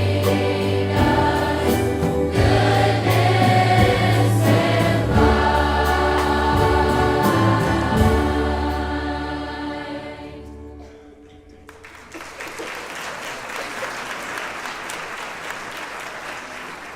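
A large high school choir singing a Christmas song with accompaniment, the final chord fading about ten seconds in, followed by audience applause.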